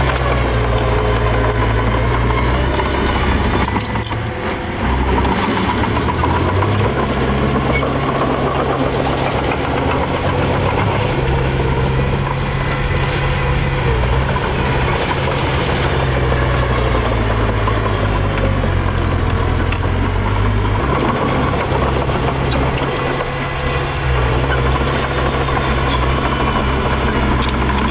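Diesel engine of a small bulldozer working, its low note shifting up and down with the load and easing off briefly twice.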